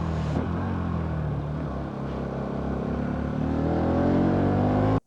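Bajaj Pulsar NS200 motorcycle's single-cylinder engine running under way. Its pitch eases down about two seconds in, then climbs steadily as the bike accelerates, until the sound cuts off abruptly near the end.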